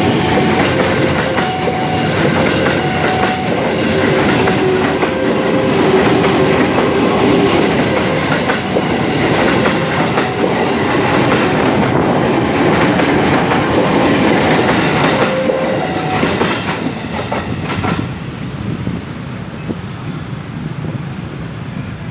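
JR 205 series electric commuter train passing at close range, its wheels knocking rapidly over the rail joints. The loud rush of the passing cars drops off about eighteen seconds in.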